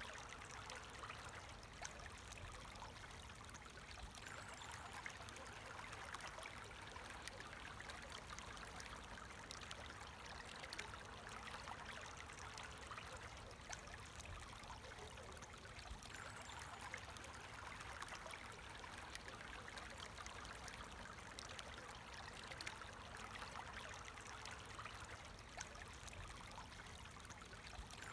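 Small stream of water flowing and trickling steadily, a faint even rush with fine splashes.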